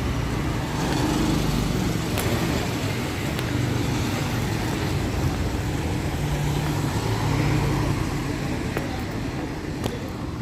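Street traffic: motor vehicles running and passing close by, a steady engine drone that swells and eases over several seconds.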